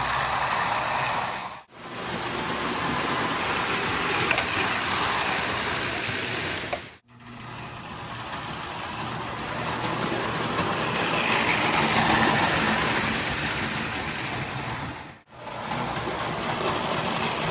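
Marx No. 898 toy steam locomotive's electric motor and gears running steadily as it pulls cars along the track, now running smoothly after repair. The sound breaks off sharply three times.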